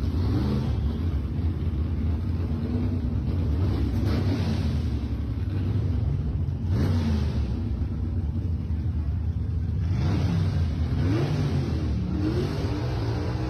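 Gasser hot rod's engine running loudly, with several throttle blips whose pitch rises and falls, about four seconds in, around seven seconds and again near the end.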